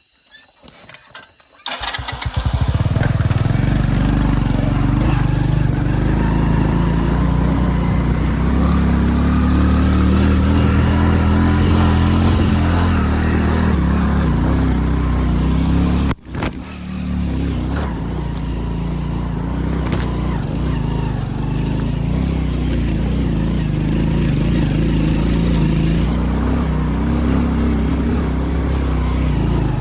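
Motorcycle engine starts about two seconds in and runs steadily. It drops out briefly about halfway, then carries on.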